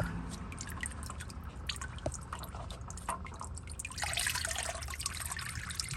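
Hot engine oil dripping and splashing into a drain pan as the oil filter comes off, irregular drips at first, then a steadier stream splashing from about four seconds in.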